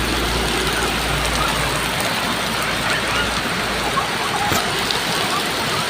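Steady heavy rain pouring down, an even hiss of rainfall with faint children's voices in it.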